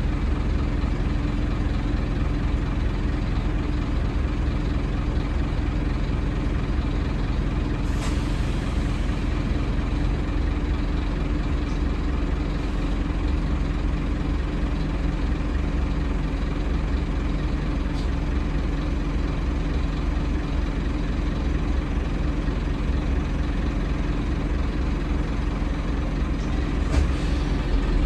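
Scania N230UD double-deck bus's diesel engine running steadily, with a brief sharp hiss about eight seconds in.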